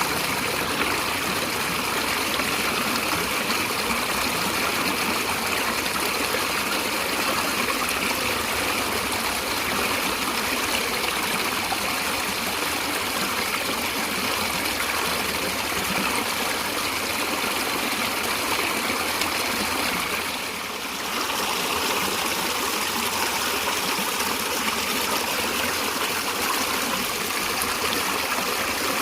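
Stream of water flowing steadily, an even rushing sound with a brief dip in level about two-thirds of the way through.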